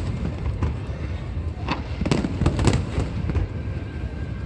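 Aerial fireworks bursting: a run of sharp bangs and pops, thickest between about one and a half and three and a half seconds in, over a steady low rumble.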